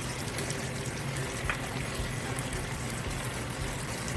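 Chicken and sauce simmering in a casserole on low heat, a steady bubbling hiss, with a faint click about a second and a half in.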